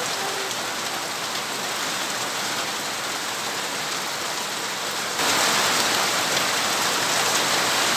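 Heavy downpour of rain splashing onto a wet paved surface and dense foliage, a steady hiss. About five seconds in it becomes suddenly louder.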